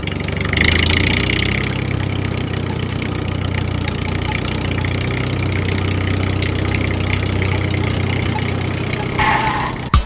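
A tractor-type engine running steadily at idle. It picks up about half a second in and cuts off abruptly just before the end.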